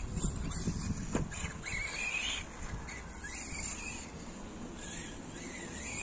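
Electric RC car running over rough ground, its motor and pinion whining in short rising and falling sweeps as it speeds up and slows, over a steady rumble of wind on the microphone.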